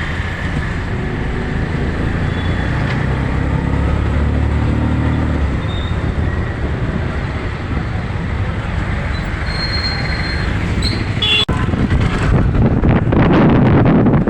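City road traffic: vehicle engines running steadily, with a few short, high horn toots just past the middle.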